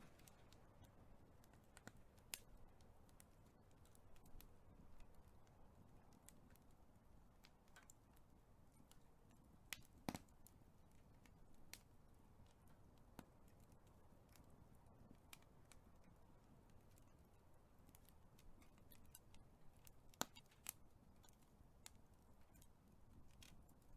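Big fire crackling faintly: scattered sharp pops and snaps over a soft low rumble, with the sharpest pops about ten seconds in and again about twenty seconds in.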